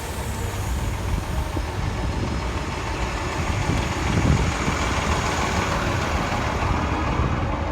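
Steady wind rumble on the microphone mixed with road and vehicle noise during a ride, swelling briefly about four seconds in.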